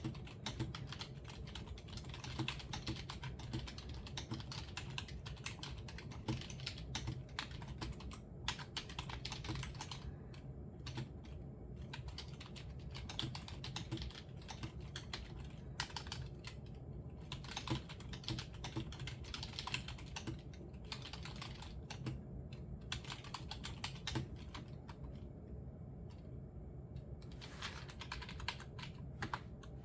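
Typing on a computer keyboard: runs of quick keystrokes broken by a few short pauses, over a low steady hum.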